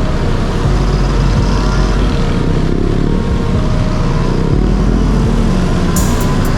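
Honda Dio AF18 scooter's 50 cc single-cylinder two-stroke engine running steadily while riding, with a few sharp clicks near the end.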